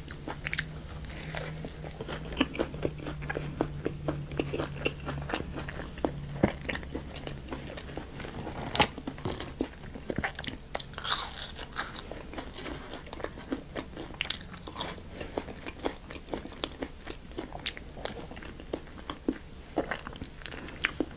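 Close-miked eating of crunchy food: a steady run of sharp crunching bites and chewing. A low steady hum sits under the first five seconds.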